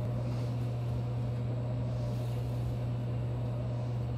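Steady electrical hum inside a JR Kyushu 813-series electric train car standing at a platform, with one strong low tone under a soft even noise.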